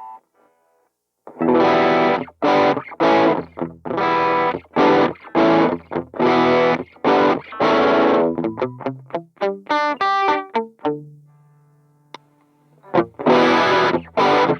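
Distorted electric guitar played through a Mooer Pitch Box detune effect and a tube distortion pedal, giving a doubled, slightly chorus-like tone. Short rhythmic chord stabs, then a quick run of single notes around the middle and a held note that fades out before the chords come back near the end.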